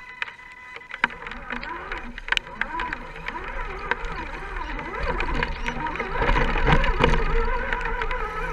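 Scale RC crawler's electric motor and gear drive whining, the pitch rising and falling again and again with the throttle, over scattered ticks and a low rumble that grows louder toward the end.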